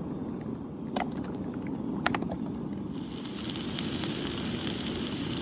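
Campfire burning with a few sharp crackling pops. About three seconds in, a steady sizzle starts, as of food frying over the fire.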